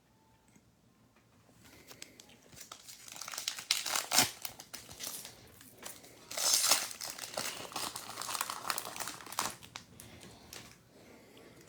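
Plastic trading card pack wrapper being torn open and crinkled by hand, starting about two seconds in, with the loudest crinkling around four seconds in and again midway through.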